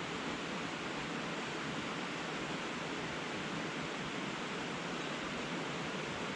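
Steady rush of a rain-swollen river running high after heavy rain, an even hiss with no breaks.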